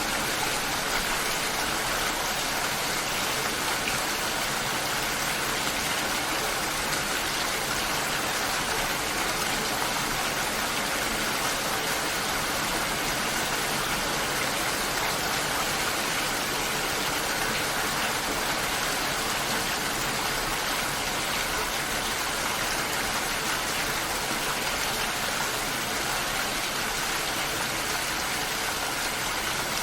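Steady, heavy rain: a dense, even wash of falling water with no thunder and no separate drops standing out.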